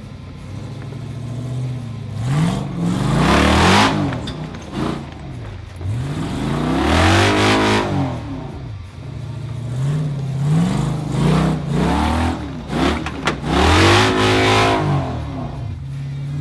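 Modified Jeep engine revving hard under load on a rock climb, in about four surges that each rise and then fall away.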